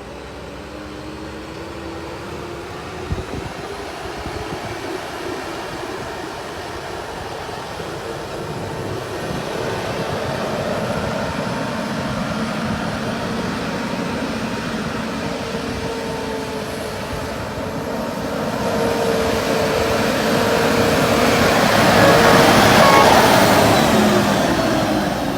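Diesel engine of a HOWO Sinotruk 8x4 cargo truck running with a steady whine. There is a single knock about three seconds in, and the engine grows louder over the last several seconds.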